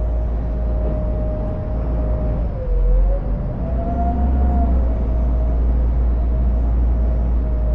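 Boat engines running underway: a heavy, steady low rumble with a whine that drifts slowly up and down in pitch, over the rush of wind and water.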